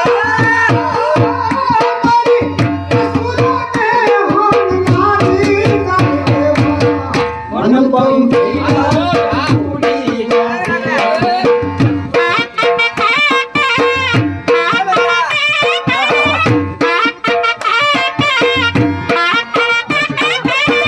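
Sarnai, a double-reed shawm, playing an ornamented folk melody with a dhol beating a steady rhythm under it; from about twelve seconds in the melody breaks into quick, fluttering runs.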